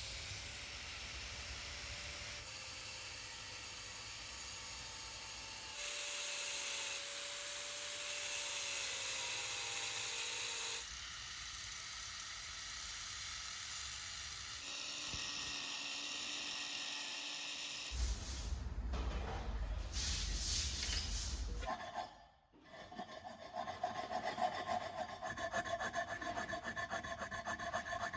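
Hand-tool work on building materials in a run of short cut segments: steady scraping and rubbing, then about two-thirds of the way in a quick, even series of rasping strokes with a ringing edge, like a file or hand saw working back and forth.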